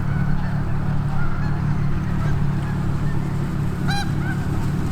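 Geese honking in the distance, with one clearer honk about four seconds in, over a steady low engine hum.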